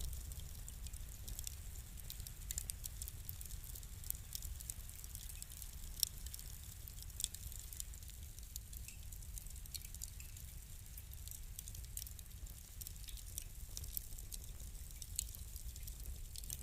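Fire crackling: irregular sharp snaps and pops over a steady low rumble, with the loudest snap about six seconds in.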